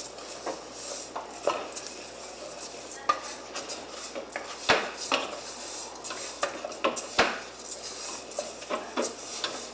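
A utensil stirring lentils and ground spices in a pan, scraping round it with sharp knocks and clicks against the pan at irregular moments.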